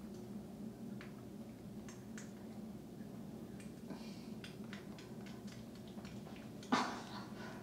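Quiet handling noises of a hands-on massage treatment: faint scattered clicks and rustles over a steady low hum, with one sharper knock near the end.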